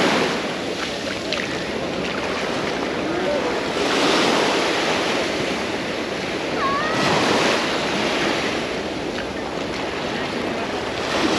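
Small sea waves breaking and washing up on a beach shore, the surf swelling every three to four seconds.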